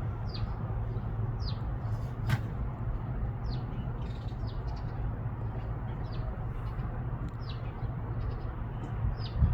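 Small birds chirping: short, high, downward-sliding chirps repeated about once a second, over a steady low background rumble, with one sharp click about two seconds in.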